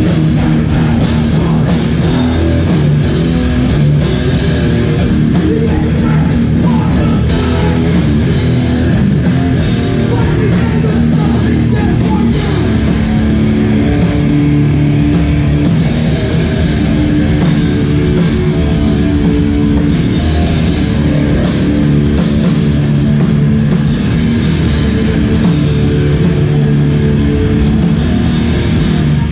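Hardcore band playing live: loud distorted guitars, bass and drum kit, with shouted vocals.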